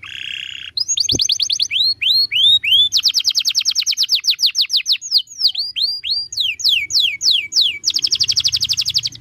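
Canary singing a master song: fast, even trills of repeated downward-sweeping notes alternating with slower series of sweeping notes, with a short rasping note right at the start.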